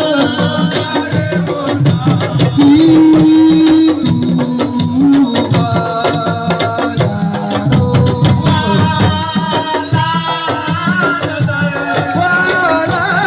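Assiko band music: hand drums and rattles playing a steady dense rhythm under a sustained melodic line.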